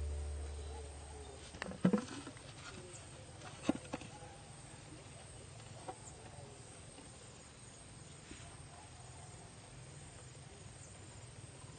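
Background music fades out, then a few faint, short bird calls come against a quiet background: two near the start and a smaller one about halfway through.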